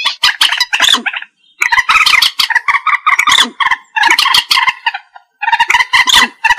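Common moorhen calling: runs of rapid, chattering call notes, broken by two short pauses.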